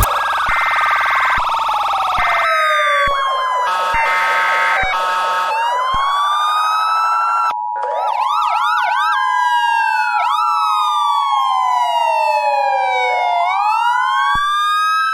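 Emergency Alert System tones: buzzing data-burst header tones, then the steady two-tone attention signal starting about six seconds in and cutting off near the end. An electronic siren wails slowly up and down over them throughout, with a quick run of yelp chirps about halfway.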